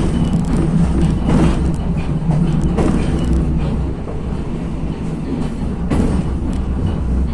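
Regionova diesel railcar running along the line, heard from on board: a steady low rumble of engine and wheels, broken by a few knocks as the wheels pass over rail joints.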